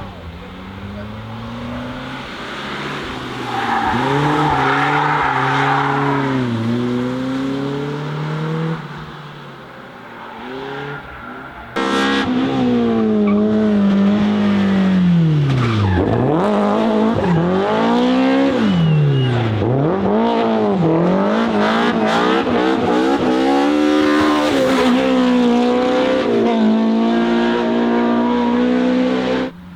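BMW E30 M3's S14 four-cylinder engine being driven hard, its pitch rising and dropping repeatedly through gear changes, in two separate passages with a sudden cut about twelve seconds in. There is a burst of tyre squeal about four to six seconds in. The second passage is louder, with steep climbs and dips in engine pitch.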